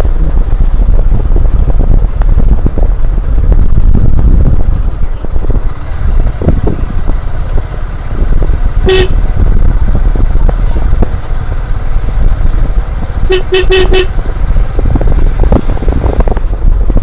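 Motorcycle riding over a rough road, its engine and heavy wind buffeting on the microphone making a loud, constant rumble. A horn toots once about nine seconds in, then beeps four times in quick succession a few seconds later.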